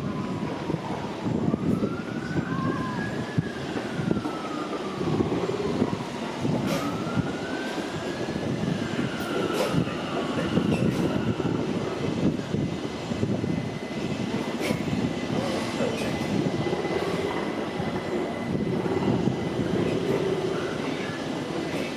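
An emergency vehicle's siren wailing, slowly rising and falling, over a continuous rumble. The siren dies away about halfway through.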